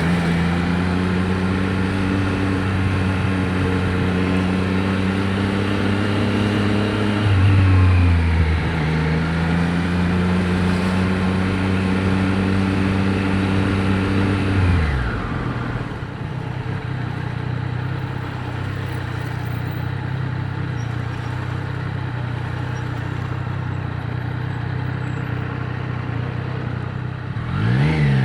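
Triumph Street Triple 765 RS inline-three engine, picked up by a mic inside the rider's helmet. It runs steadily at road speed, its note drops about seven seconds in and falls again about halfway to a steady idle, then it revs up as the bike pulls away near the end.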